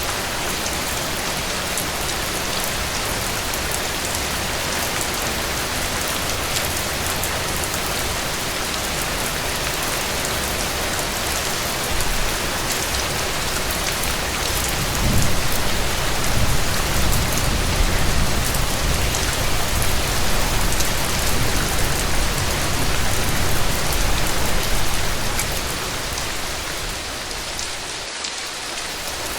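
Heavy rain pattering steadily on a cabin porch and roof. About halfway through it swells louder with a deeper low rumble, then eases back near the end.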